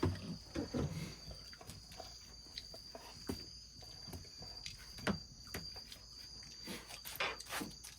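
Scattered light clicks and knocks, a few louder ones near the middle and end, over a steady high-pitched insect drone.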